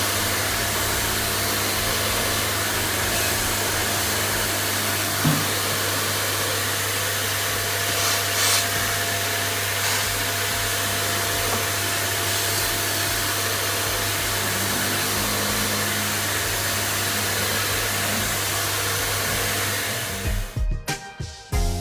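Steady whooshing of a small electric motor-driven cleaning appliance, with a low, even hum underneath. It cuts off about twenty seconds in, and music starts.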